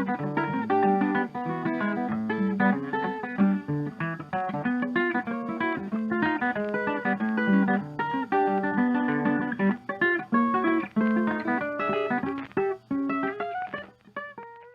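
Background music: acoustic guitar playing a quick run of plucked and strummed notes, thinning out and fading near the end.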